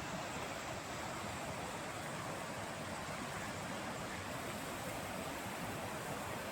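A steady, unbroken rushing noise with no change in level or pitch.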